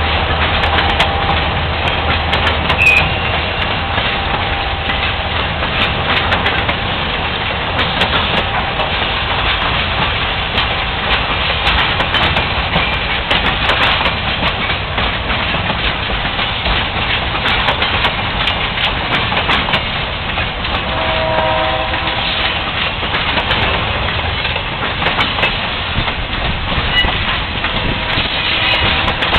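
Loaded flatcars of a long freight train rolling past, a steady rumble with the clickety-clack of wheels over rail joints. A brief tone sounds for about a second roughly two-thirds of the way through.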